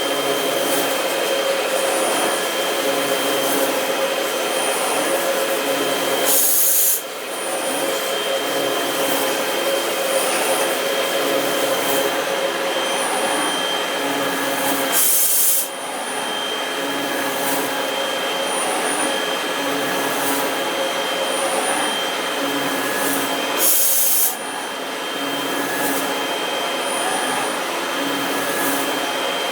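CNC milling machine cutting metal: a steady rasping cutting noise with a constant high whine. The sound breaks off abruptly and restarts about 7, 15 and 24 seconds in.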